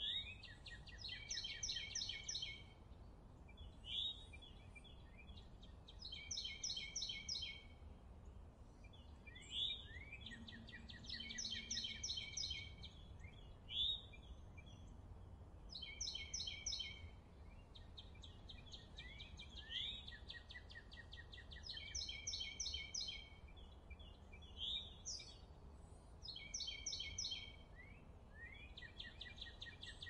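A songbird singing: the same phrase of rapid, high repeated notes, about two seconds long, comes every three to four seconds, with single short sliding notes in between. A faint steady low rumble lies underneath.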